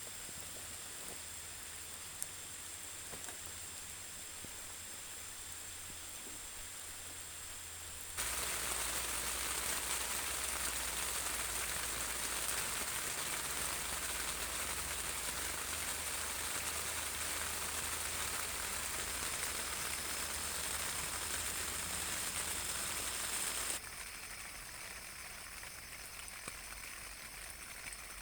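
Steady rain falling, becoming abruptly louder and heavier about eight seconds in and dropping back to a lighter patter a few seconds before the end.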